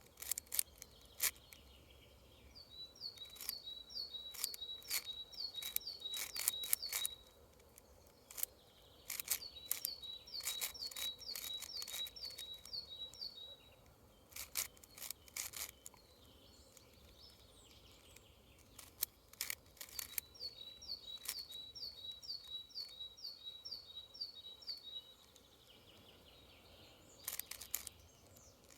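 Plastic clicks of a 6x6 Rubik's cube being turned, in irregular bursts. A bird calls three times, each a quick run of the same short note repeated about three times a second.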